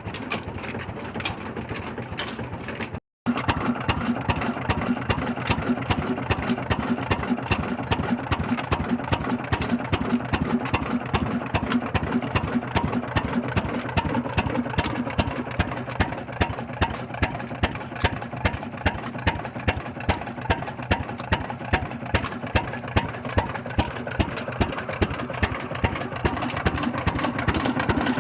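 Old Ruston Hornsby stationary diesel engine running at slow speed, with a steady beat of sharp knocks, about two to three a second, over a fast mechanical clatter. The sound cuts out briefly about three seconds in.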